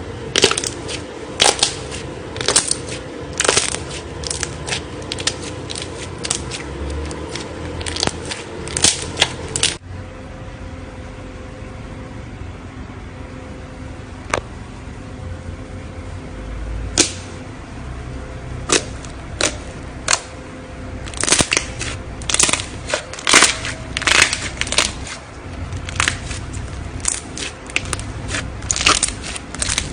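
Hands working a craft material (slime or clay), making irregular sharp clicks and crackles, sometimes in quick clusters. About ten seconds in the background changes abruptly, as at a cut between two clips.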